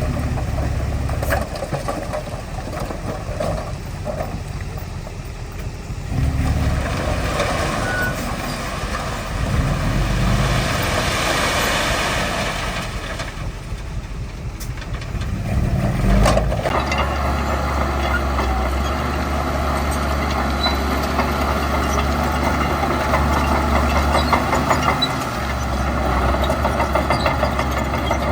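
Heavy diesel construction machinery (bulldozer and dump trucks) running and working. About ten seconds in there is a spell of rushing noise, and from about halfway on a steady low engine drone.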